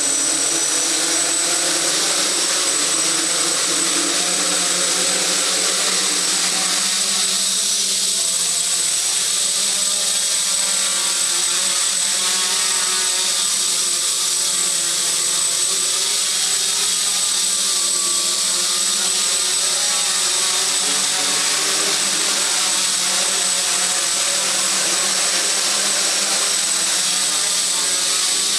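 Quadcopter's Aeolian brushless motors and propellers running steadily in flight, motor pitch wavering up and down, with a constant high-pitched whine over the top that comes from the motors' worn bearings.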